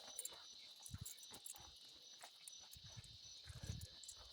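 Faint, steady chorus of insects such as crickets, a constant high buzz, with a few soft low thumps.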